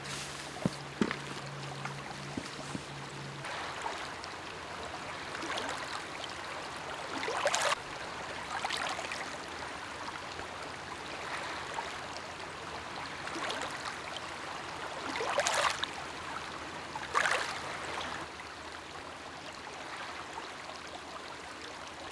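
Small lake waves lapping and splashing at the shore, with irregular swells every few seconds. A low hum runs for the first few seconds and then stops.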